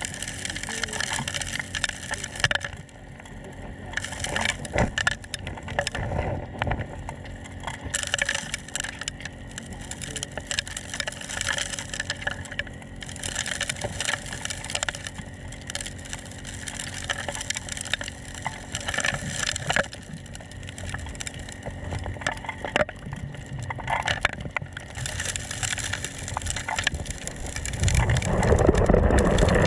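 Gold dredge running steadily, with gravel and rocks knocking and clattering through it. Near the end a louder low rumble.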